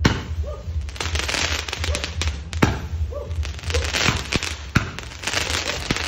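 Fireworks going off: a dense run of crackling broken by sharp bangs scattered throughout, the loudest bang right at the start.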